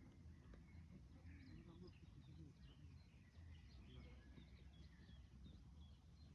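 Faint birdsong: several small birds chirping and warbling in short, scattered phrases over a low, steady rumble.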